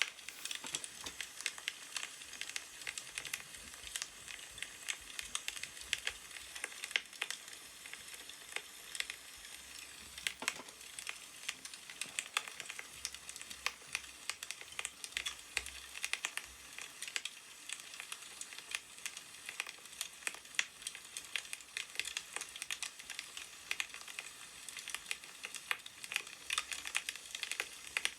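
Firewood crackling as it burns: a steady, dense stream of small pops and snaps over a soft hiss.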